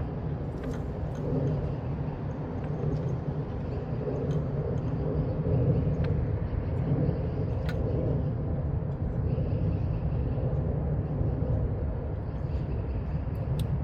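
Steady low rumble with slight swells, with a few faint scattered clicks.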